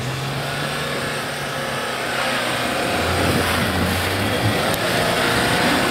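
Off-road 4x4's engine running with a steady rush of noise, its low note deepening and strengthening for about a second and a half partway through.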